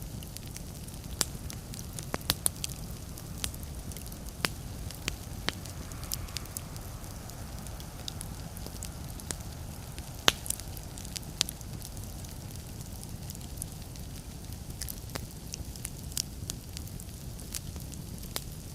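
Wood fire burning in a fireplace: a steady low rumble with scattered sharp crackles and pops, the loudest about ten seconds in.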